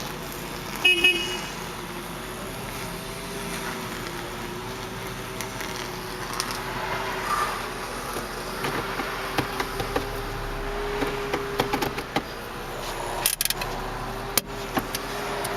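2010 Hyundai Elantra Touring's 2.0-litre four-cylinder engine idling steadily and quietly just after starting. A short high beep about a second in and a few sharp clicks near the end.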